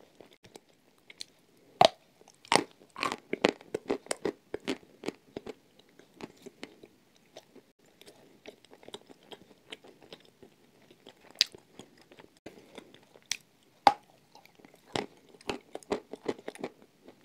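Clay being bitten and chewed in the mouth, with a quick run of loud, sharp crunches about two seconds in. The chewing goes quieter and sparser in the middle, then crunches pick up again near the end.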